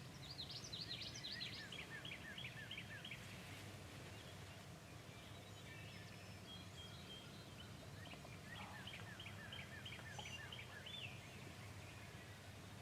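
Distant wild turkey gobbling twice: a faint, rapid rattling run of notes, then another about eight seconds later.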